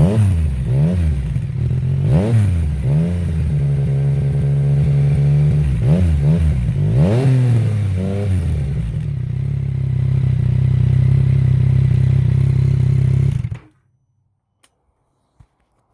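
Yamaha XSR900's inline three-cylinder engine through a GPR aftermarket exhaust, revved in repeated blips, held briefly at a steady higher speed, blipped again, then running steadily before the sound cuts off suddenly near the end.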